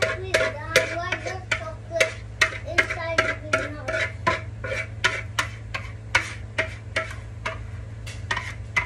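A utensil stirring, scraping and knocking against a strainer as lumpy puto batter is pushed through it: a quick run of sharp clicks, about two to three a second, with short squeaks in the first half, over a steady low hum.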